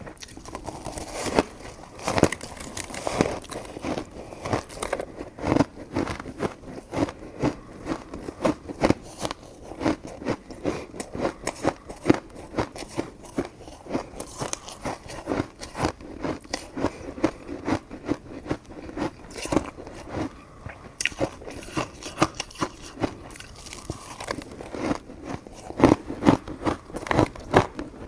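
Close-miked chewing of soft, sticky coconut rice cake, with many quick wet mouth clicks and smacks, several a second.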